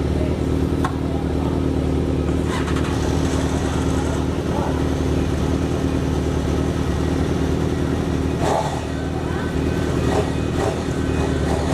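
Motorcycle engine running at a steady speed, not revving. Brief voices are heard in the last few seconds.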